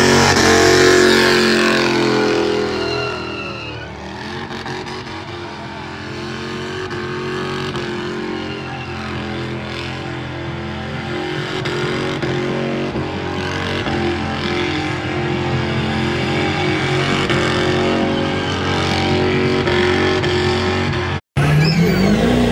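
Hot-rod car engine held at high revs through open exhaust stacks during a tyre-smoking burnout. The revs drop about three seconds in and then climb back slowly. Near the end, after a cut, a pickup truck's engine revs up in a rising sweep.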